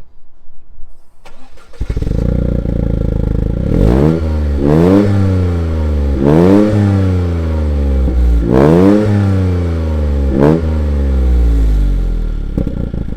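Toyota GR Yaris turbocharged three-cylinder engine breathing through a Milltek resonated exhaust and downpipe, starting up just under two seconds in and then idling between about six quick throttle blips, each rising and falling in pitch.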